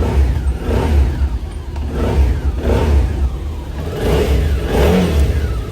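Rebuilt QJ SRT650 650 cc V-twin motorcycle engine running and being revved in repeated blips, rising and falling about once a second. It has just been reassembled after a teardown, with a Suzuki 650 crankshaft fitted.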